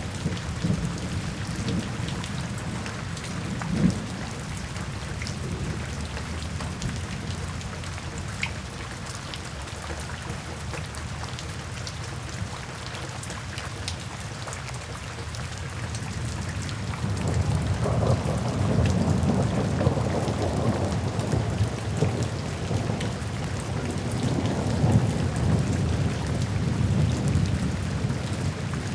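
Steady rain falling, with a low rolling rumble of thunder that swells up a little over halfway through and keeps rumbling.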